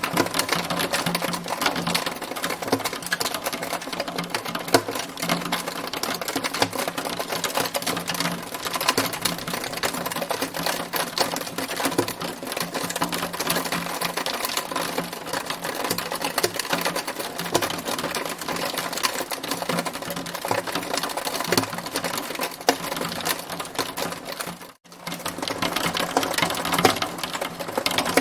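Hail storm: a dense, unbroken clatter of hailstones striking a hard surface. It drops out for a split second near the end.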